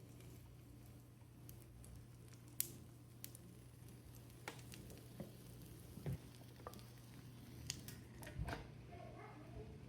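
Quiet kitchen handling sounds: scattered light clicks and taps of utensils and dishes over a steady low hum.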